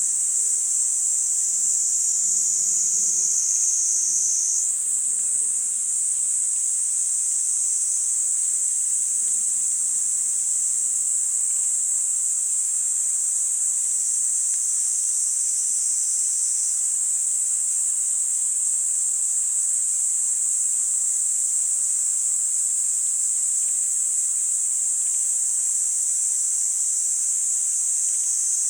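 Kaempfer cicadas (niiniizemi) buzzing in one unbroken high-pitched drone, which steps up in pitch about five seconds in and holds steady after.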